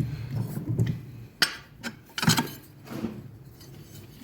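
Steel pieces and tools being handled and set down on a metal work surface: a few scattered clunks and clinks, the sharpest about a second and a half and two and a quarter seconds in.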